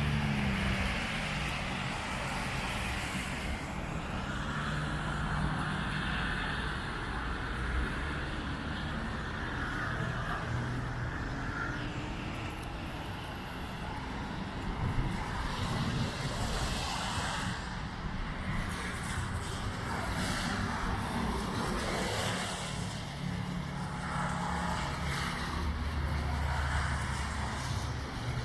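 A car engine running, with steady road noise and a low engine hum that rises and fades.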